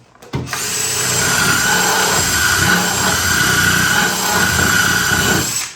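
Handheld power drill running at a steady speed for about five seconds, with a steady motor whine, starting and stopping abruptly, as when driving a long wood screw into a door frame.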